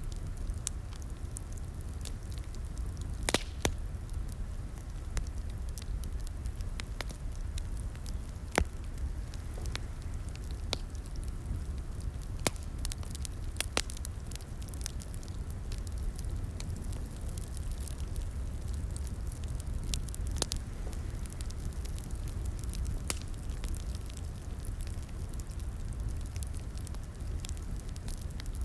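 Crackling wood fire in a fireplace: a steady low rumble of flames with irregular sharp pops and snaps, a few of them louder than the rest.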